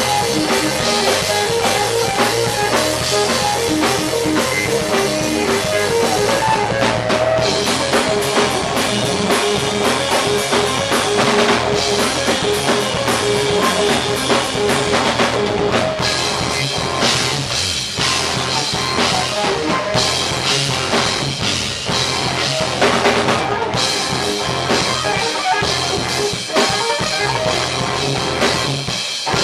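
Rock band playing live at a loud, steady level, with a busy drum kit pounding throughout and guitar.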